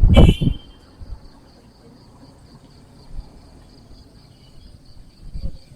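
Insects trilling steadily, a high, even, finely pulsing buzz. At the very start there is a brief loud burst, the tail of a passing motor vehicle.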